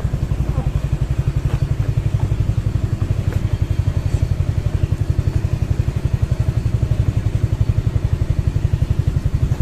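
Motorcycle engine running steadily at low revs, a regular low throb of about nine beats a second.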